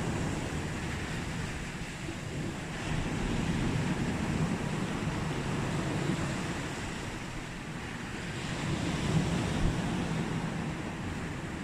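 Mediterranean sea waves washing onto a beach: a steady rush of surf that swells and eases over several seconds.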